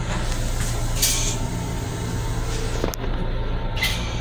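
Steady low hum of an M7 electric railcar heard from inside its restroom, broken by three short hisses.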